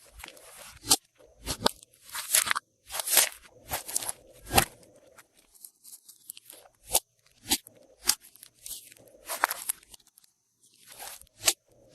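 Glossy slime being mixed and squeezed, giving irregular crackling and sharp clicking pops in quick clusters, with short quiet gaps between them.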